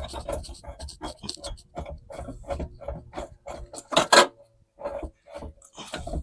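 Metal clicks and scrapes as a lawnmower blade, its washers and the crank bolt are handled and fitted by hand, with a louder double clank about four seconds in.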